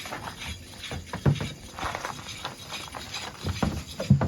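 Irregular knocks and clunks from the freshly fitted brake on a Polaris RZR side-by-side as the brake is applied to check the new pads. The loudest knocks come about a second in and again near the end.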